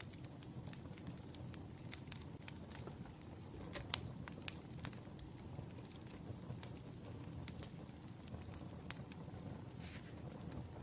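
Wood fire crackling: scattered sharp pops and snaps over a low, steady rumble of burning logs, with the loudest pop about four seconds in.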